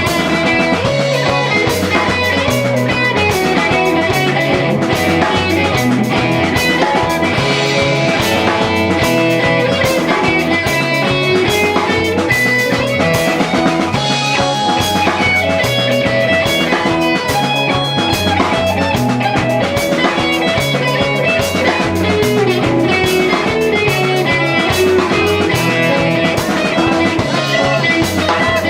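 Live four-piece rock band playing a song: electric guitar, bass and drum kit, loud and steady with a repeating bass line.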